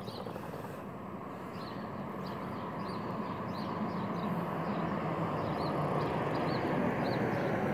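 Road traffic at a street crossing: a vehicle's engine and tyre noise growing gradually louder as it approaches. Faint high chirps repeat about every half second over it.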